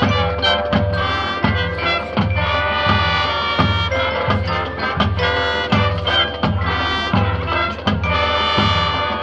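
Marching band playing: brass holding a melody over a steady bass-drum beat of about two strokes a second.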